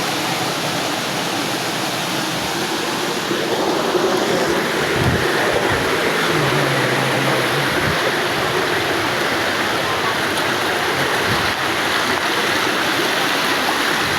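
Water rushing down a mountain waterfall and stream, a steady dense rush that gets a little louder about four seconds in.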